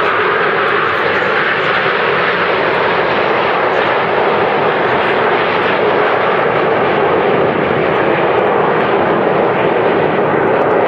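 Jet engines of the Frecce Tricolori's Aermacchi MB-339 jets in flight, a loud, steady jet noise that holds without a break.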